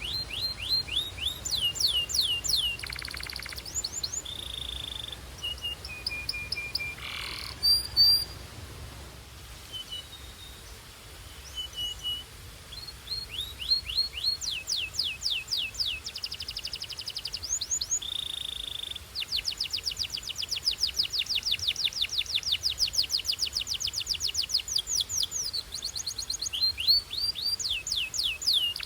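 Belgian canary singing: rapid trains of sharp falling chirps and held whistled notes, with a long fast rolling trill near the middle-to-end.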